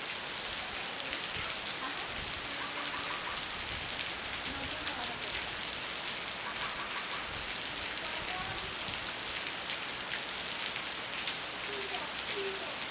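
Steady rain falling, a continuous hiss dotted with individual drop hits.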